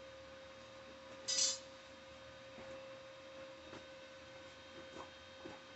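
A faint steady tone hums throughout, and a short hiss lasts about a third of a second roughly a second in. A few light clicks fall later on.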